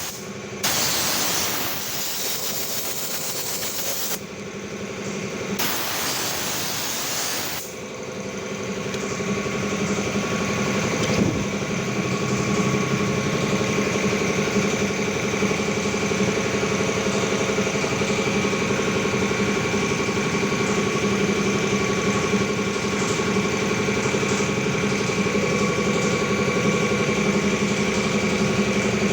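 Two long blasts of compressed air hissing, the first about three and a half seconds and the second about two, then a motor running steadily with a constant hum.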